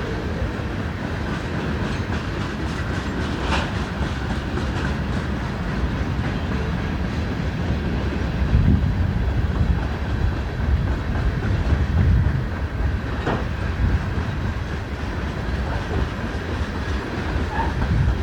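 Freight cars rolling past on the rails: a steady low rumble of wheels on track, with a faint steady squeal and a sharp click twice.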